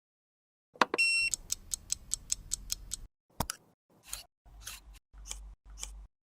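A quick run of small sharp clicks, about five a second, from handling makeup tools and containers, followed by a few soft scraping sounds.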